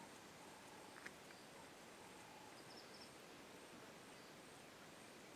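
Near silence: faint bush ambience with faint, repeated insect calls and a single faint click about a second in.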